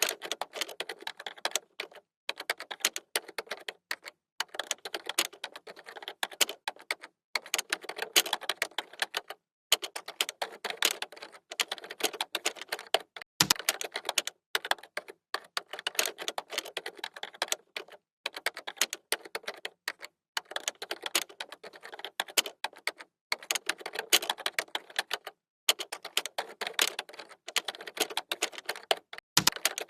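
Typing on a computer keyboard: rapid key clicks in runs of a few seconds with short pauses between, and a heavier thump about halfway through and again near the end.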